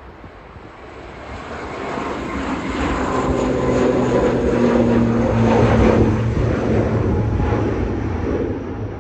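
Airliner passing close, its engines' steady droning tones over a rushing noise, swelling up over the first few seconds and easing off near the end.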